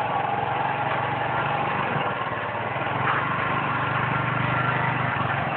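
Motorcycle engine running steadily during a ride, a constant low hum under a noisy rush.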